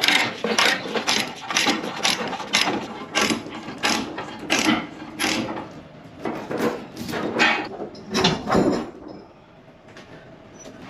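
Repeated mechanical ratcheting clicks, about two or three a second, stopping about nine seconds in.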